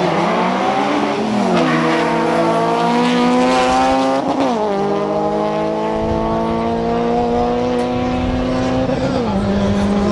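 Audi Q5 and Honda Civic Si at full throttle in a quarter-mile drag race. The engine note rises steadily and drops sharply at each upshift: about a second and a half in, just after four seconds, and near the end.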